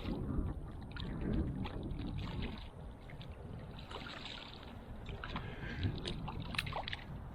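Wind buffeting the microphone in a steady low rumble, with scattered small clicks and knocks while a fish is reeled in and landed.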